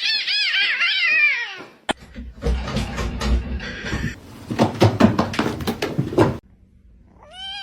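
A cat meowing in a fast series of short calls that rise and fall, about three a second. After a cut about two seconds in come rustling and knocking noises, and a long wavering pitched call starts near the end.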